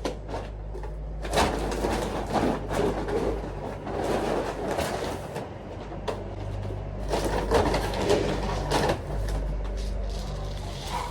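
An engine idling steadily, with irregular rustling and knocking noises over it.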